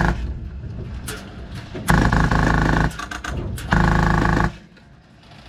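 PolarStar HPA-powered airsoft M249 light machine gun firing full-auto bursts inside a truck cab: one burst cuts off just at the start, then two more bursts of about a second each, around two and four seconds in.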